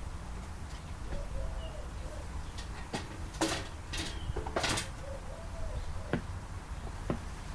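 Sharp clicks and knocks of parts and tools being handled while a microwave oven is taken apart, clustered in the middle, over a steady low hum.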